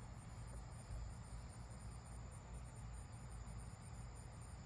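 Faint, steady high-pitched chirping of insects, evenly pulsed several times a second, over a low rumble on the microphone.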